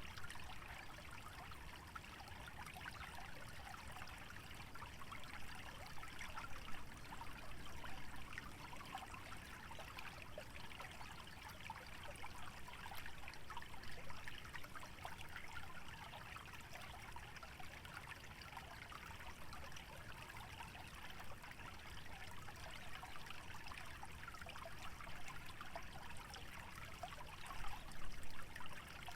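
A small stream trickling steadily through a wetland, a continuous bright babble with a low rumble underneath, briefly louder near the end.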